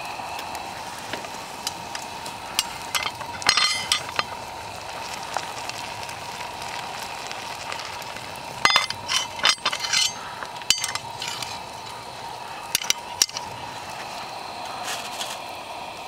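Bonfire crackling: a steady hiss with irregular sharp pops, clustered a few seconds in and again through the second half.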